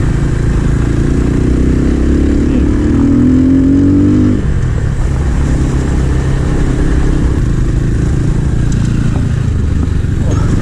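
A 250 cc motorcycle engine accelerating, its pitch rising for about four seconds before dropping suddenly at a gear change, then running on steadily under way.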